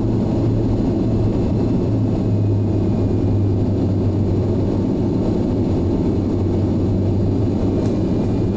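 Steady drone of a Boeing 737's jet engines and airflow heard from inside the passenger cabin, low-pitched and unchanging in level.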